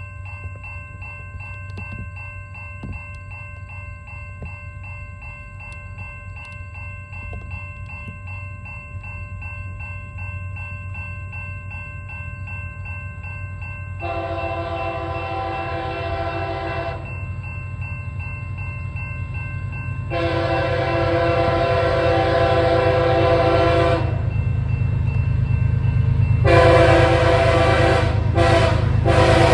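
Locomotive air horn sounding a grade-crossing signal, two long blasts and then a short and a long, over a bell ringing about three strokes a second. The rumble of the approaching train grows louder throughout.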